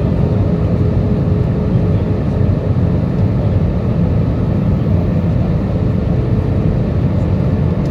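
Steady cabin noise inside an Airbus A320: a deep, even rumble of engine and airflow, with a faint steady hum above it.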